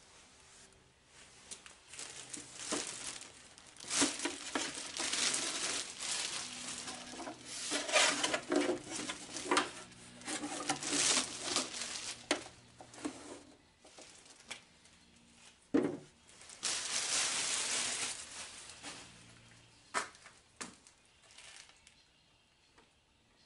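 Packing material crinkling and tearing in irregular bursts as machine parts are unwrapped, with a few sharp knocks in the second half.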